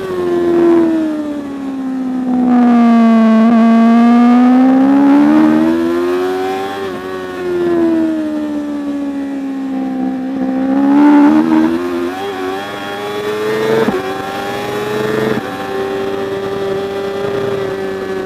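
Racing superbike engine under hard use. The revs drop over the first few seconds, climb and sag in long sweeps, and step quickly several times around two-thirds of the way through with two sharp clicks, as at gear changes. Near the end the engine holds a fairly steady high pitch.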